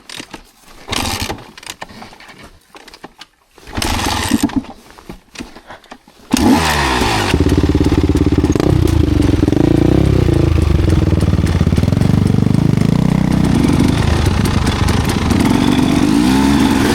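Enduro dirt bike engine starting about six seconds in and then running loudly, its pitch rising and falling as the throttle is blipped. A shorter loud burst comes about four seconds in, before the engine starts.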